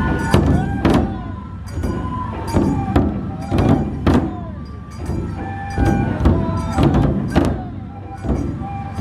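Dō-procession festival music: large barrel drums struck in a repeating beat of about two hits a second, with small cymbals clashing on the strikes and a bamboo flute playing a held, stepping melody over them.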